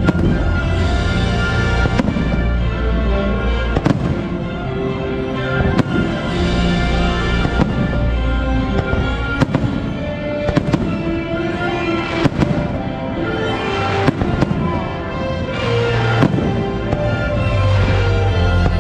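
Fireworks show: firework bursts banging every second or two over loud, continuous show music.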